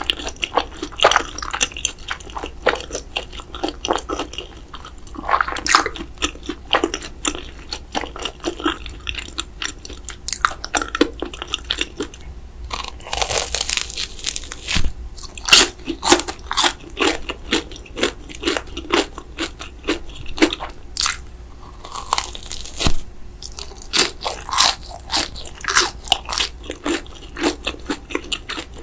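A person eating: crunchy bites and chewing, in quick irregular crunches and clicks, with a longer crunching burst about halfway through and another about three-quarters of the way in.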